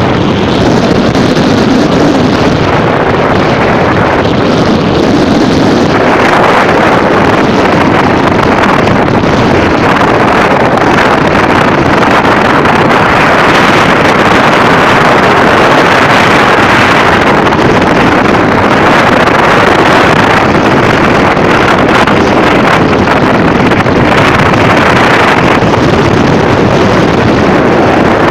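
Strong storm wind gusting and buffeting the microphone in a loud, steady roar.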